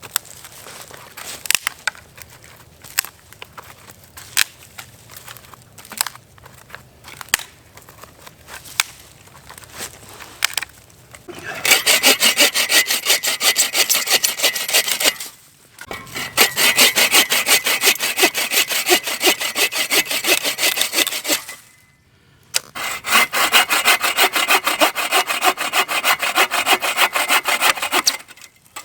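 Hand saw cutting through a log in three long bouts of quick back-and-forth strokes, with short pauses between them. Before the first bout there are scattered light knocks and crackles of wood being handled. The saw is likely the Agawa Canyon Boreal 21 bow saw.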